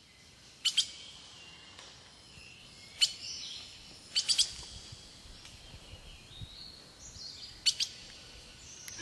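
Birds calling: short sharp chirps every second or two, some in quick pairs or clusters of three, with fainter whistled notes between them.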